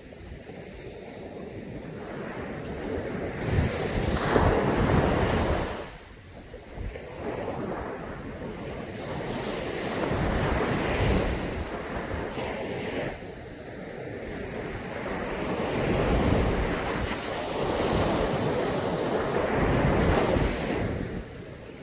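Sea waves breaking and washing up a beach in about three long surges, each swelling for several seconds and then falling away, with wind buffeting the microphone.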